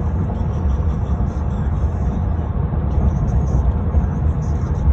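Steady low rumble of a car on the road, heard from inside the moving car.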